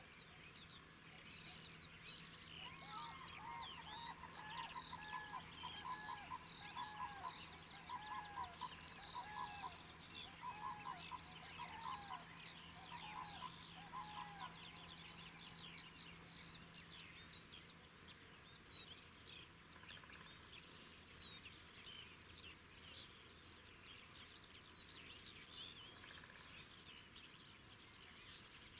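Birds singing and calling: many quick chirps and trills overlapping throughout. From a few seconds in to about halfway there is a run of repeated lower calls, one or two a second. A faint steady low hum dies away around the middle.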